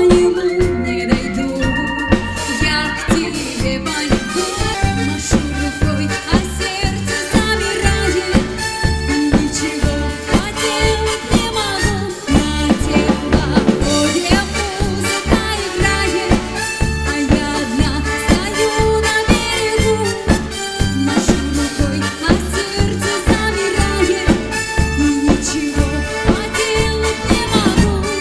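Live band music with a steady, swinging drum and bass beat and other instruments playing over it.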